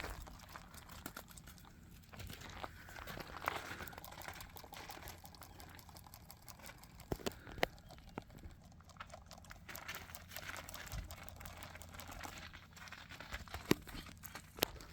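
Footsteps with rustling and crunching, broken by scattered sharp clicks; the loudest click comes near the end.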